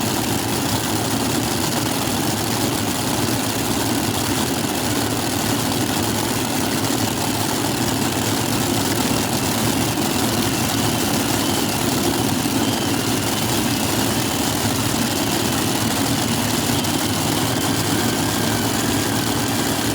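Four-engine Super Modified pulling tractor warming up, its engines running at a steady idle with no revving.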